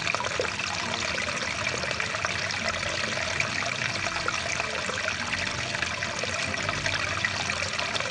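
Stream of rushing water, a steady, unbroken water noise.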